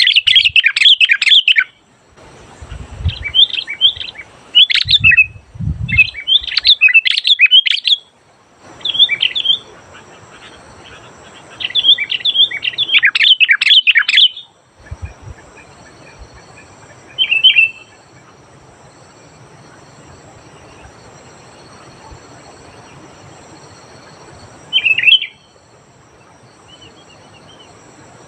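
Sooty-headed bulbul (kutilang) singing in loud bursts of quick, chirpy, bubbling phrases with short pauses between them. Over the second half it gives only two brief calls.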